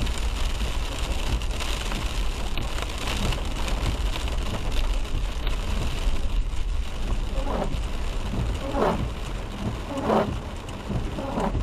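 Driving in rain: a steady hiss of rain and wet-road tyre noise over a low rumble, with a few short swishing sounds about a second and a quarter apart in the second half.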